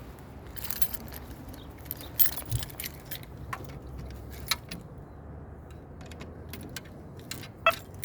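A set of keys jangling, with light clicks scattered throughout and a sharper click near the end.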